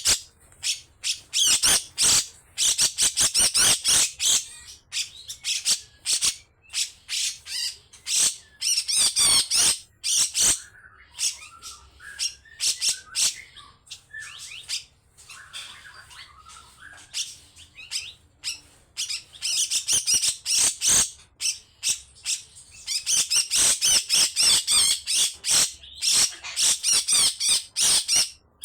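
Cucak jenggot (grey-cheeked bulbul) giving long runs of harsh, rasping chatter in rapid repeated bursts. The calls drop to a quieter stretch of softer, lower notes in the middle, then come back loud.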